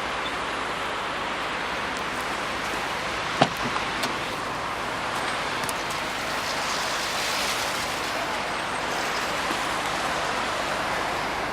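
Steady noise of a running car idling, with a sharp click about three and a half seconds in and a fainter one just after.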